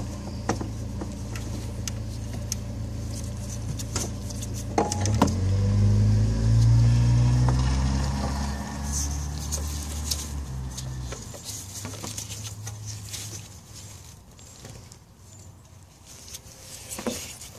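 A motor vehicle's engine running, rising in pitch and getting louder for a few seconds midway, then fading away after about eleven seconds. Scattered light clicks and knocks of hands and tools working in the engine bay.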